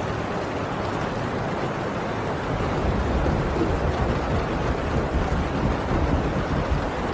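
Heavy rain falling steadily on a tin roof, with a deep low rumble of distant thunder swelling in about two and a half seconds in.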